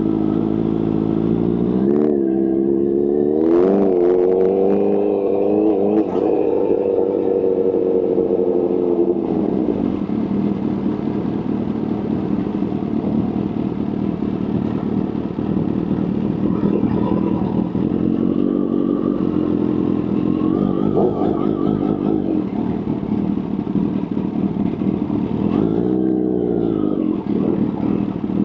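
Kawasaki H2 supercharged inline-four motorcycle engine being revved: two short throttle blips, then revs held up for several seconds, then steadier running, with more blips near the end.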